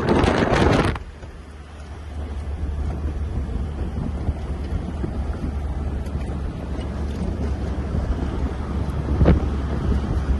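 Land Rover Series 2a's 2.2 TDCi turbo-diesel engine running as the vehicle drives, a steady low rumble that slowly builds. Wind buffets the microphone loudly for about the first second, then drops away. A single sharp knock comes near the end.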